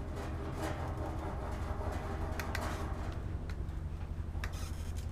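Light metallic clicks and taps as a motorcycle exhaust silencer and its clamp hardware are moved and adjusted by hand, over a steady low hum.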